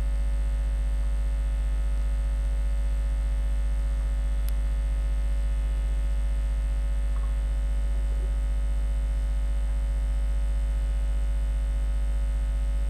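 Steady electrical mains hum and buzz, a low drone with many even overtones, unchanging throughout; a faint tick about four and a half seconds in.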